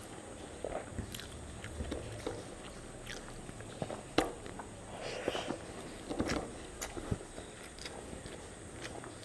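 Close-up eating sounds: chewing and lip smacks of someone eating rice by hand, with irregular sharp wet clicks, the loudest about four seconds in.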